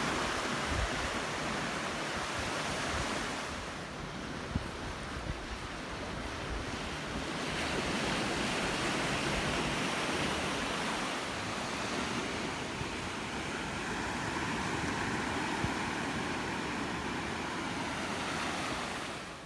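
Ocean surf washing on a beach, rising and falling in waves, with wind buffeting the microphone.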